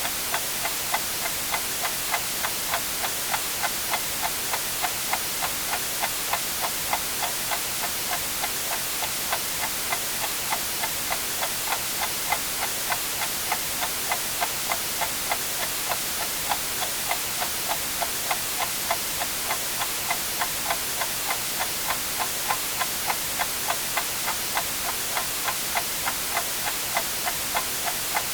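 Clock ticking evenly, about twice a second, over a steady white-noise hiss.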